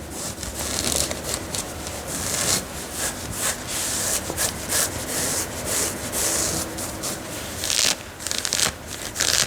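Dress fabric being scratched and rubbed by hand on the front of a worn dress, a quick, irregular run of short scratchy strokes.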